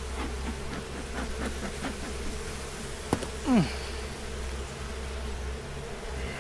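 Honeybees buzzing around an open hive, a steady hum with short buzzes of bees flying past. A sharp click comes about three seconds in, and just after it a bee passes close by, its buzz loud and dropping in pitch.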